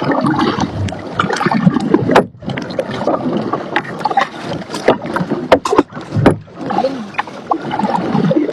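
Kayak paddling: paddle blades splashing in the water and knocking repeatedly against the kayak's hull, with many sharp knocks and a brief pause about two seconds in.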